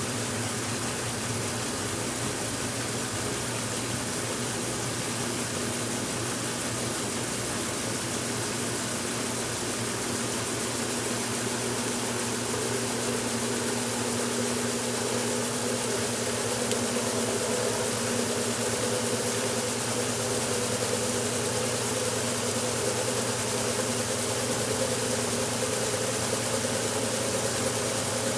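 1969 Westinghouse washing machine running mid-cycle: a steady motor hum with a hiss over it. Partway through, the hum rises slowly in pitch and grows a little louder.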